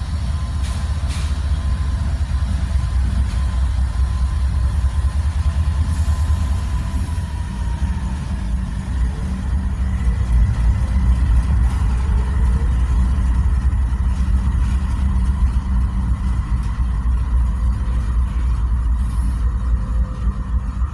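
Diesel freight locomotives running with a steady, heavy low rumble.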